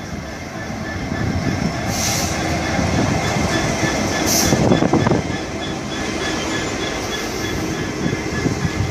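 A train running along the rails, a steady rumble that builds over the first five seconds, with a faint steady high tone and two short hissing bursts about two and four and a half seconds in.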